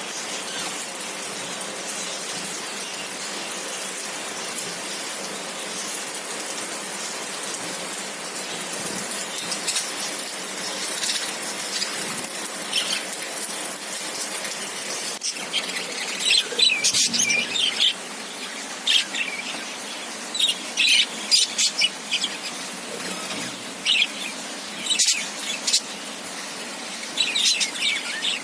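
Budgerigars chirping in short, high, busy bursts over a steady hiss. The chirping starts about halfway through and comes in clusters.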